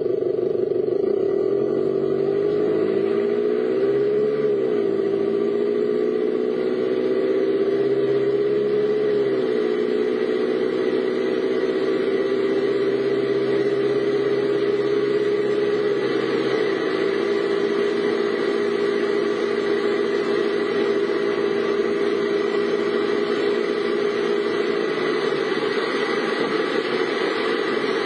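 Car engine running while driving, its pitch rising and dipping a few times as the speed changes.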